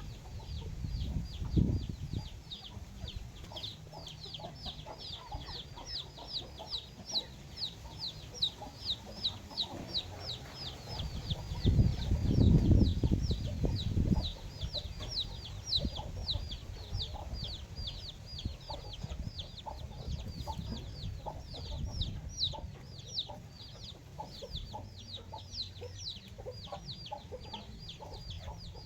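Backyard chickens: a steady run of short, high, falling peeps, about four a second, over low clucking, with a louder low-pitched stretch about twelve seconds in.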